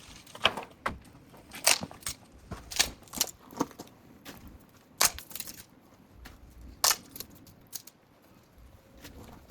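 Wood fire of scrap offcuts crackling, with about a dozen sharp, irregular pops and snaps.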